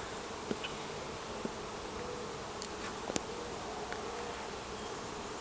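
Italian honeybees buzzing steadily around an opened, smoked hive, with single bees' wavering wing-tones passing close by. A few light clicks sound over the buzz, one about three seconds in.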